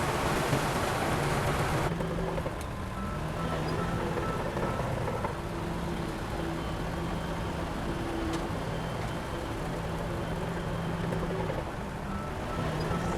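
Heavy diesel earthmoving machinery running steadily. A louder, rougher stretch in the first two seconds cuts off abruptly.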